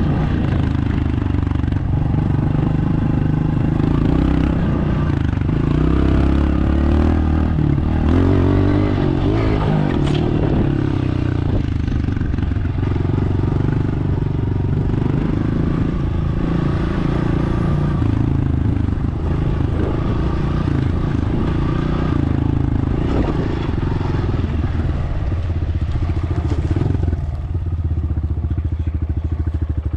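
Dirt bike engine running under a rider, its pitch rising and falling with the throttle. Near the end it drops back to a steadier, lower run.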